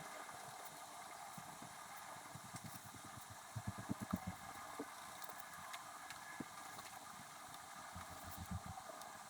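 Writing sounds at five times normal speed: a pen moving on paper as a steady hum, with quick runs of soft taps from the pen and paper on the desk about halfway through and again near the end.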